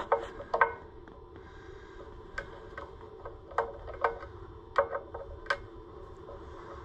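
Sharp metallic clicks and taps, about eight at uneven intervals, from a small screwdriver working at small metal parts around the tractor's ignition points.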